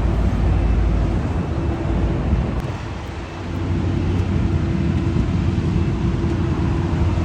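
Motor vehicle engine and road noise: a steady low hum that eases off about three seconds in and builds again.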